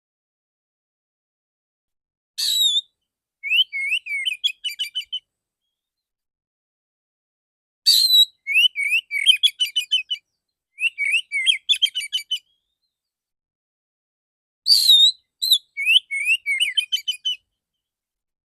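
Male oriental magpie-robin (kacer) singing in four bursts separated by silences. Most bursts open with a loud whistled note, followed by a quick run of short, clear notes.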